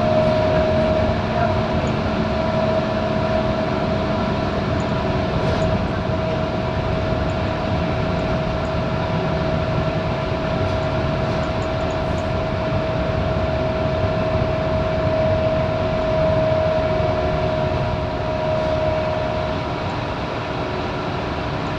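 Scania K230UB single-deck bus's five-cylinder diesel engine and drivetrain running steadily, with a constant whine held throughout and a low rumble beneath.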